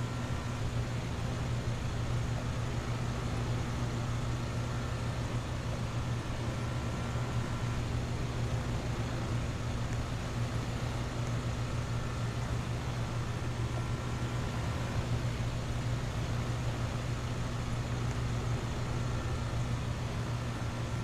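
Central air-conditioner outdoor condensing unit running steadily: the Copeland scroll compressor's low, even hum under the whoosh of the condenser fan.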